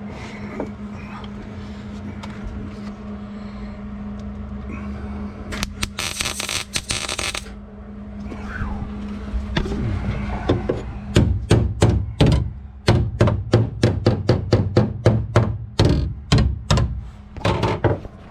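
Repeated hard blows on sheet steel, two to three a second for the last several seconds: a floor patch panel being hammered into place. About six seconds in there is a brief harsh rasping burst, and a steady low hum runs underneath.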